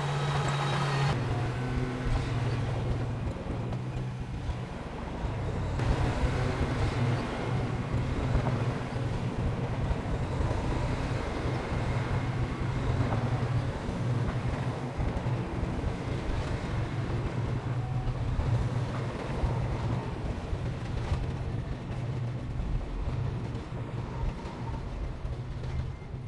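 Diesel engine of heavy earthmoving machinery running with a steady low drone.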